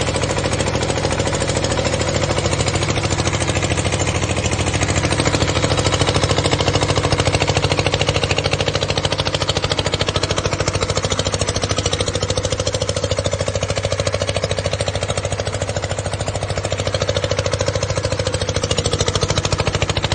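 Diesel engine of a power-line conductor winch running steadily with a fast, even firing beat; its loudness swells slightly now and then.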